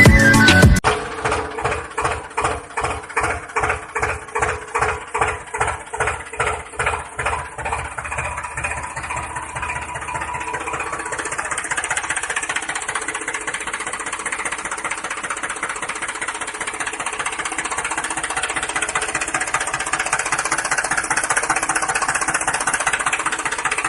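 A small engine chugging slowly and regularly, about two beats a second, then settling after about nine seconds into faster, steadier running that grows slightly louder.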